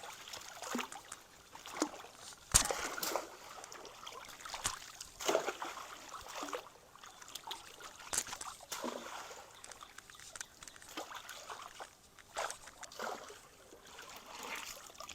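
Creek water splashing and sloshing in irregular bursts as someone wades through it, with one sharp click about two and a half seconds in.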